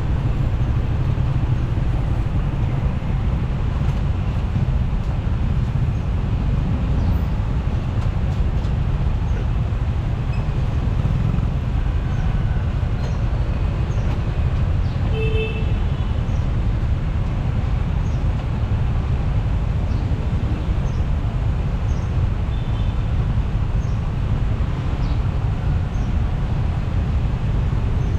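Steady engine, road and wind noise from a motorcycle riding through city traffic, with a brief vehicle horn toot about halfway through.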